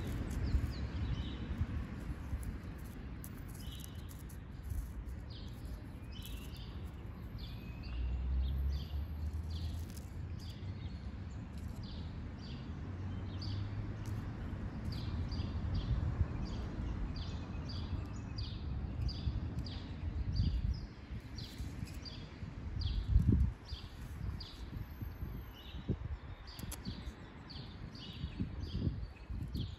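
A small bird chirping over and over, short high chirps a little more than once a second, over a steady low rumble. A dull thump sounds about two-thirds of the way through.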